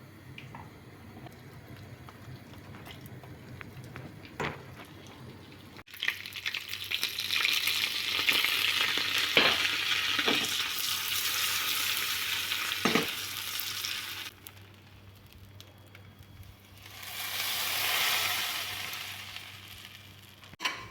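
Food sizzling in a hot pan while being stirred, with a few knocks of the spoon against the pan. The first few seconds are quieter with light clicks. The sizzling starts suddenly about six seconds in, dies down after about eight seconds, then swells up once more and fades near the end.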